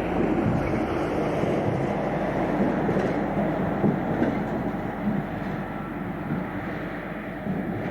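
Passenger train rolling past at speed, a steady rush of wheels on the rails that slowly grows quieter.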